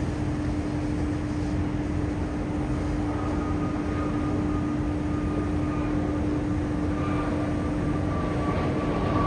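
Aircraft engines running steadily: a constant noise with a low hum held at one pitch, joined about three seconds in by a fainter high whine that slowly drifts down.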